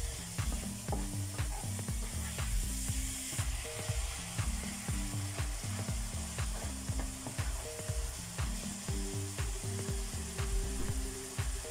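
Sambal ingredients (sliced shallots, garlic and chilli) sizzling in oil in a stainless steel wok, with a spatula stirring and scraping the pan in repeated clicks. Low background music runs underneath.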